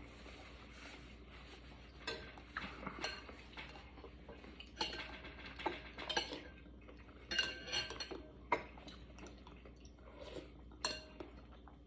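Spoon and utensils clinking and scraping against a soup bowl while eating, in short, irregular knocks, a few of them ringing briefly.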